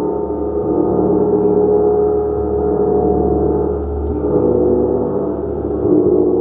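A large gong played continuously: a dense, sustained wash of many overlapping ringing tones that swells and eases gently without dying away.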